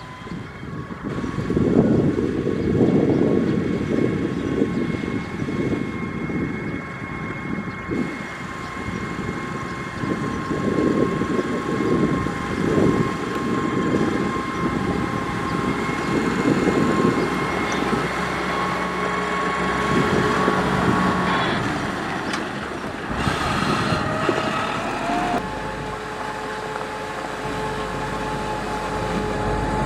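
Caterpillar 140H motor grader working a gravel road: its diesel engine runs with a steady whine over an irregular low rumbling noise. The whine shifts pitch a little past the middle, rising briefly.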